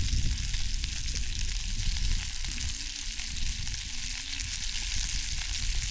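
Food frying in oil in a pan on a camping stove: a steady sizzle with fine crackles throughout.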